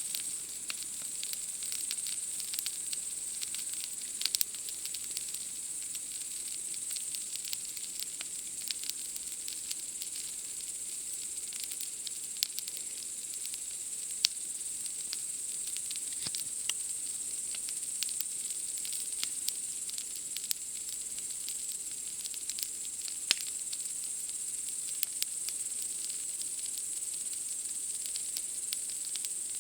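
Wood campfire crackling, with irregular sharp pops and a few louder snaps. Behind it runs a steady high-pitched chirring of night insects.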